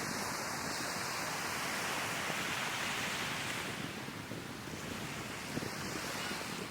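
Sea waves washing onto the shore, swelling about midway and then easing, with wind buffeting the microphone.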